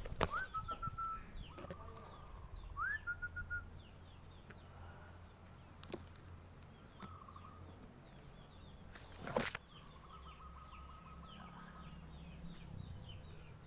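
Zebra dove cooing: a quick rising note followed by a rapid run of short even notes, twice in the first few seconds, then softer trilled calls later on. A single sharp noise stands out about nine seconds in.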